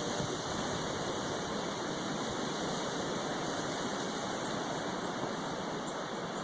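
Strong wind blowing steadily: a constant, even rushing hiss with no breaks or gusts standing out.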